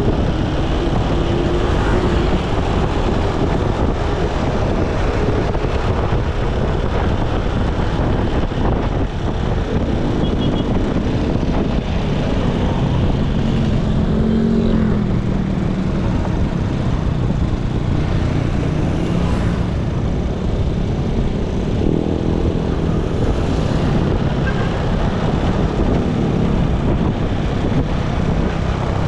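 Motorcycle engine running under way, with heavy wind and road noise over the microphone; the engine's pitch rises and falls several times as the speed changes.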